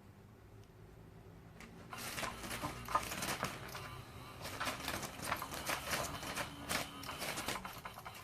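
Electric cat toy running, a low motor hum under rapid, irregular clicking and clattering that starts about two seconds in and stops shortly before the end.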